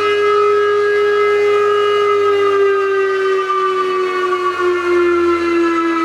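The knife grinder built onto a Paoloni PS 630 planer running with a loud whine that slowly falls in pitch.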